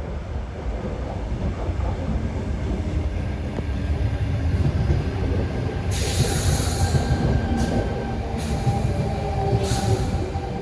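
Electric passenger train pulling into the platform: a heavy rumble of wheels on rail with a steady whine, and several short hisses from about six seconds in.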